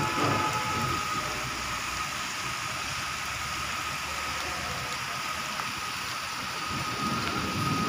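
Steady hiss of rain falling, with a faint thin whine held steady through it.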